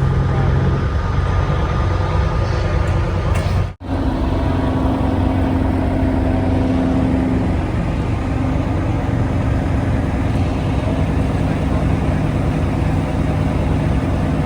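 Big truck's diesel engine running with a steady low drone and road noise. The sound cuts out for an instant about four seconds in, then the same steady drone carries on.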